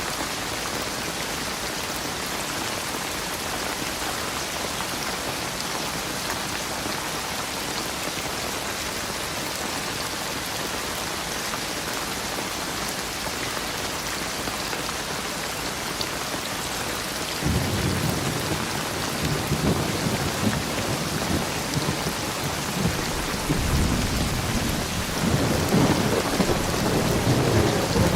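Steady rain falling, with thunder rumbling in about two-thirds of the way through and growing louder toward the end.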